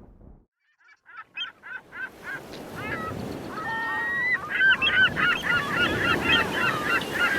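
A flock of birds giving honking calls: a few calls about a second in, building to many overlapping calls over a low, steady rushing noise.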